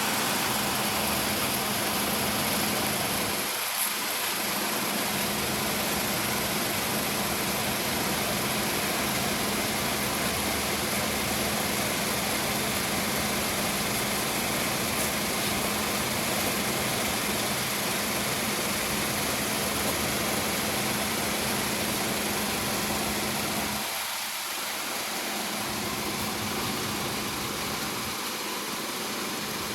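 Heavy industrial machinery running steadily: an even mechanical noise with a constant low hum, dipping briefly in the low end twice.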